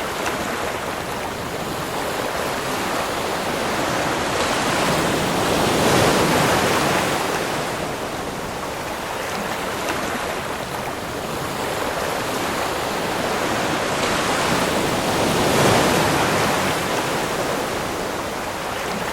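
Ocean waves: a continuous rush of surf that swells twice as waves break and wash in, about six seconds in and again around sixteen seconds.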